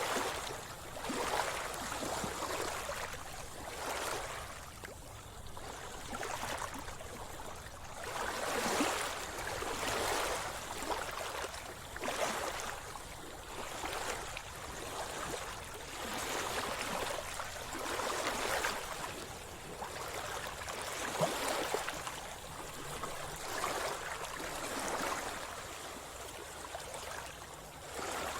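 Sea water splashing and gurgling close around a swimmer, in irregular surges every second or two.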